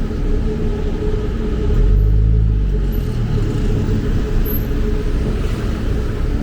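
Road traffic with a steady hum underneath. A vehicle passes close by and is loudest about two seconds in.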